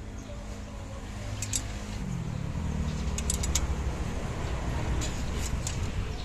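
Light metallic clinks of hand tools, in small clusters, over a steady engine hum that rises in pitch and gets louder about two seconds in.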